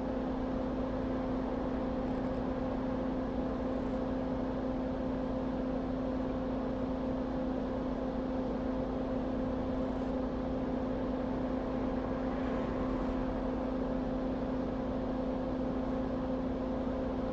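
Steady drone of a small electric motor or fan: a constant pitched hum over an even hiss, unchanging throughout.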